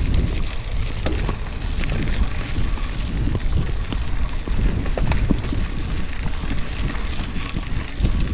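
Wind buffeting the microphone of a camera on a moving bicycle: a steady low rumble with scattered small clicks and ticks.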